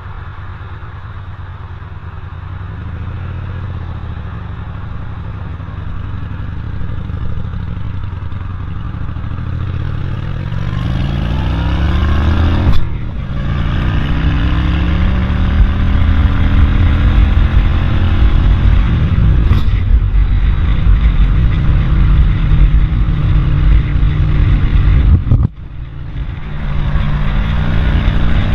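Road noise from a motor vehicle engine that speeds up about ten seconds in and then runs steadily and loudly, over heavy low wind rumble on the microphone. The sound breaks off sharply for a moment a few times.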